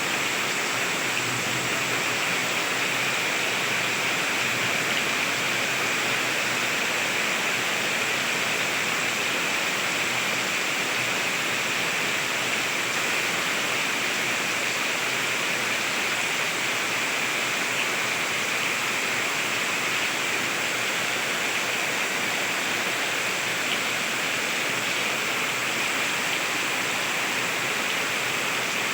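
Heavy rain pouring steadily, an even hiss with no thunderclaps or gusts standing out.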